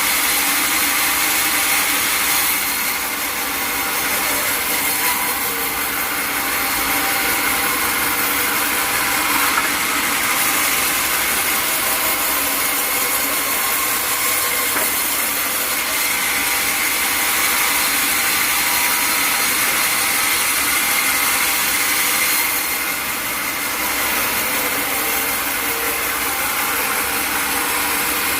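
Sawmill saw running and cutting through a log: a steady, loud machine-driven sawing with a constant high tone, easing off briefly twice.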